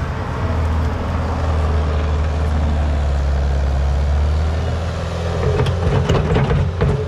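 Skid steer engine running steadily at a low pitch, with metallic clanking and rattling joining in about five and a half seconds in.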